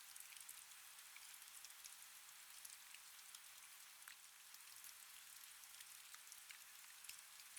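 Faint, steady rain: an even hiss of rainfall with many small drops ticking through it.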